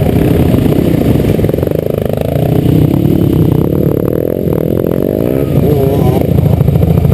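Motocross bike engine, heard up close from the bike, revving up and down as it accelerates and shifts gear, with the pitch climbing and falling several times.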